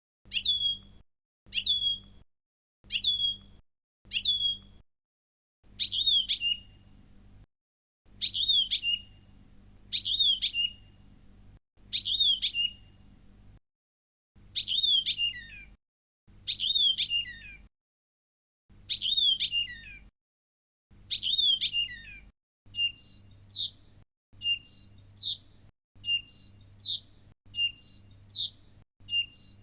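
Blyth's reed warbler song elements, each clip repeated with short silent gaps between. First comes a short falling note about once a second, then longer two-part phrases about every two seconds, and near the end a different phrase with high sliding notes, repeated quickly.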